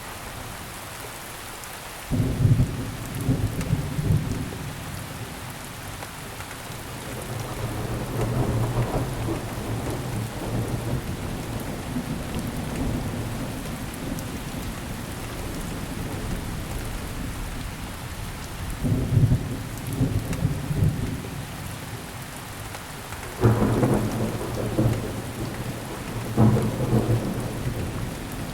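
Steady rainfall hiss with thunder: a low rumble breaks in suddenly about two seconds in and rolls on unevenly, with louder surges twice near the end.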